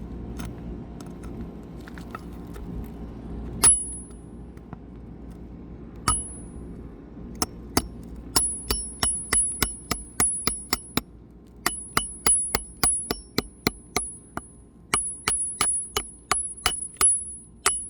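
Hammer striking a steel flat bar or shingle ripper to drive it under a shingle at a deeply set roofing nail, metal on metal with a short high ring on each blow. Two single strikes come first, then steady rapid strikes about two to three a second from about eight seconds in.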